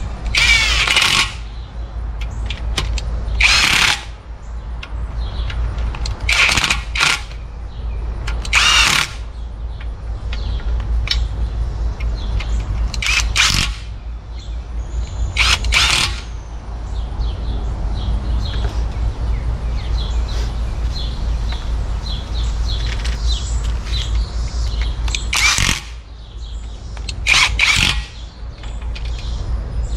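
A hand-held power tool, such as a drill or air tool, run in short bursts of about a second each, about nine times, over a steady low hum.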